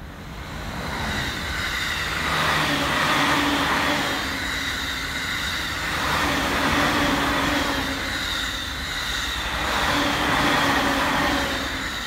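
A JR East stainless-steel commuter electric train passing close by. The running noise builds over the first two seconds, swells and eases several times as the train goes by, and dies away near the end.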